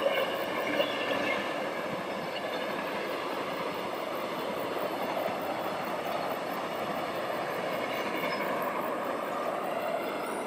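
Passenger train passing, the steady noise of its wheels running on the rails, a little louder in the first second.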